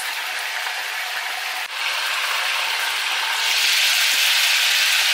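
Chicken pieces frying in hot olive oil in a frying pan: a steady sizzle that turns brighter and louder about three and a half seconds in.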